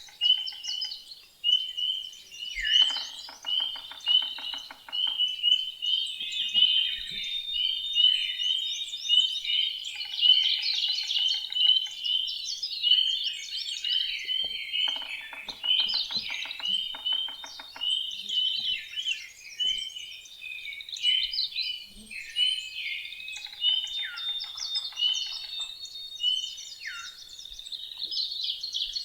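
A dense chorus of many songbirds singing and calling over one another. A lower, rapidly pulsed trill joins in four times, for about two seconds each.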